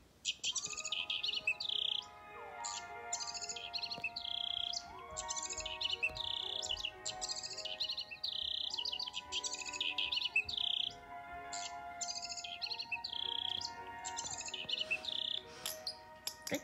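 Recorded songbird chirping played back: short bursts of rapid, high chirps repeating about once a second, over background music with held tones that slide down in pitch every couple of seconds.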